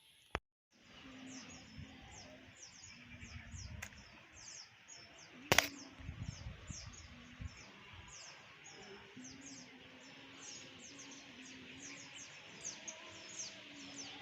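Small birds chirping, a continuous run of quick, high, falling chirps, with a single sharp click about five and a half seconds in.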